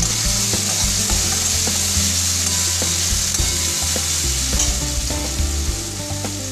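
Chopped onion and tomato sizzling in oil in a metal kadai, with a steady hiss throughout, while a metal spatula scrapes and taps against the pan as it is stirred.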